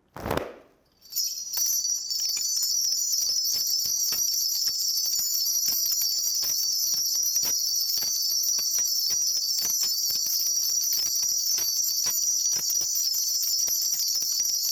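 A cluster of Korean shaman's ritual bells (bangul) shaken in a fast, continuous jingle, which starts about a second in after a brief louder sound. The bells are rung to call the spirits for a divination.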